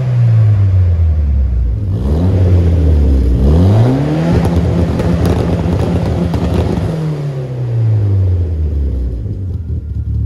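Ford Escort RS Cosworth's big-turbo four-cylinder Cosworth engine revving. The revs fall, then rise sharply about three and a half seconds in, hold for about three seconds, and drop back to a steady idle near the end.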